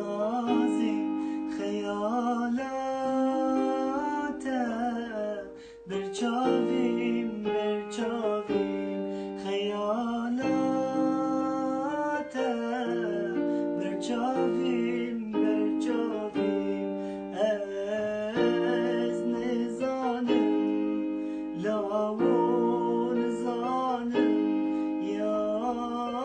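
Music: a voice singing over a plucked-string instrument, in flowing phrases with held, wavering notes.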